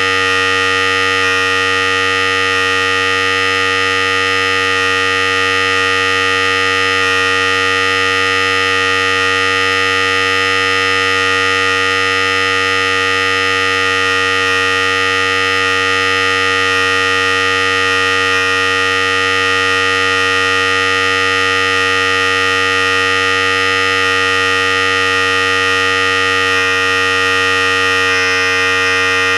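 Philips Series 5000 hair clipper running continuously: a steady, unchanging electric buzz, a low hum under a bright, high-pitched whine.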